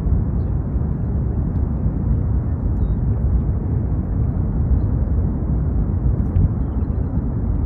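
Steady low roar of a Kilauea lava fountain erupting, a deep, even rushing rumble without breaks.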